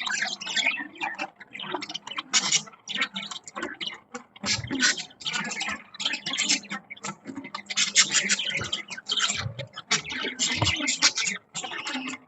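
Pet budgerigars chirping and chattering in quick, irregular bursts.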